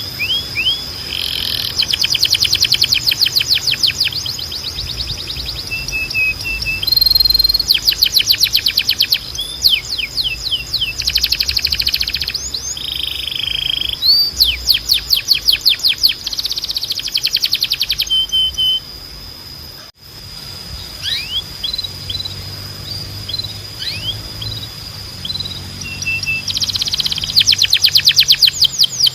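Timbrado canary singing: fast rolling trills of rapid even strokes, alternating with short held whistled notes and downward-sweeping glides. The song breaks off briefly about two-thirds of the way through, then resumes.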